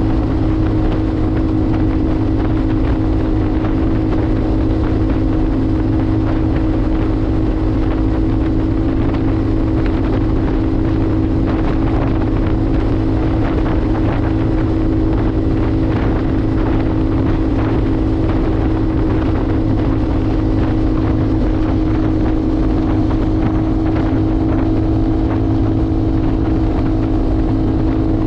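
Motorcycle engine running at a steady, unchanging pitch while riding, with wind rushing over the microphone.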